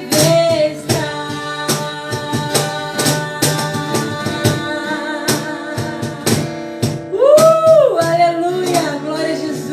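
Christian worship song: voices singing over strummed acoustic guitar, with a long held note swelling and falling away about seven seconds in.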